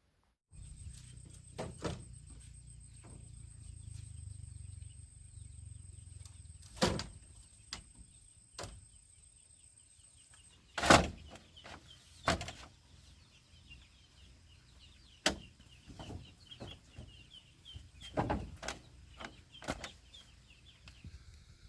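Scattered knocks and thuds, the loudest about eleven seconds in, over a steady high whistle that stops about ten seconds in and a low rumble that fades after about seven seconds.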